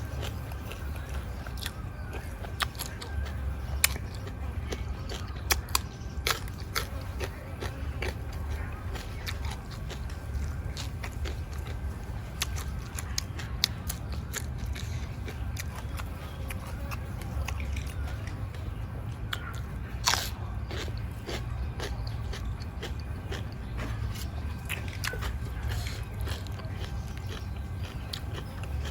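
Close-up eating: a person chewing mouthfuls of raw beef with fresh vegetables, sharp crisp crunches coming irregularly throughout, the biggest about twenty seconds in. A low steady hum runs underneath.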